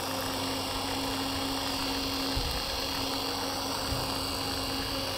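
Electric motor spinning a fan propeller at full (100%) speed: a steady hum with a constant whine. Two faint, brief low bumps come about two and a half and four seconds in.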